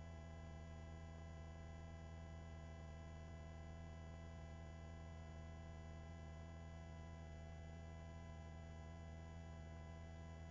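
Faint, steady hum made of several pure tones, with a high whine above it: a helicopter in flight as heard through the cabin intercom line, not through open air.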